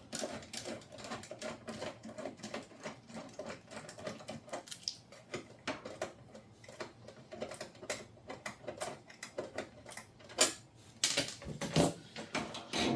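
Dense, irregular clicking and light metal tapping from a screwdriver and screws being worked on a dishwasher's front panel, with a few louder knocks near the end.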